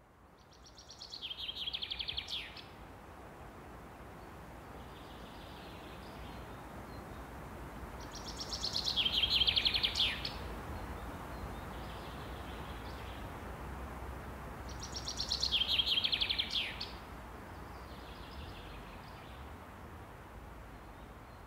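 A songbird singing the same short, rapid trilled phrase three times, about seven seconds apart, each phrase ending in a quick downward sweep, with fainter bird song between them. Steady low background noise throughout.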